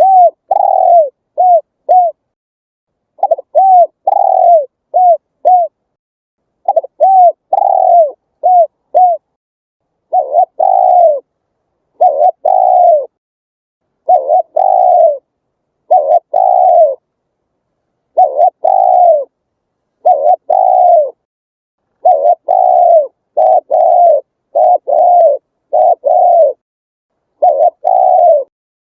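Spotted dove (cu gáy) cooing over and over in loud phrases of two to four low coos, each phrase followed by a short silent pause.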